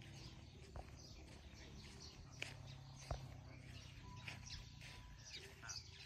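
Birds chirping in short, scattered calls, faint over a low steady rumble, with a few brief clicks.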